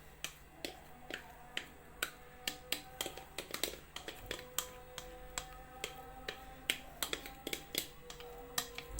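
Sharp, irregular clicks and taps of a utensil against kitchenware, about two or three a second, while cake batter is emptied into a mould.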